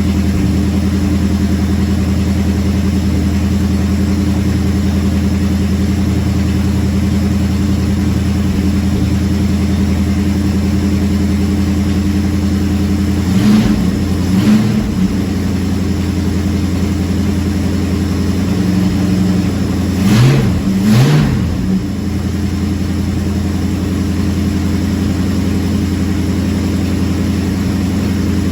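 Carbureted car engine idling steadily after a cold start, with two quick pairs of throttle blips, about halfway through and again about two-thirds in. The carburetion has just been dialed in and the engine runs smoothly.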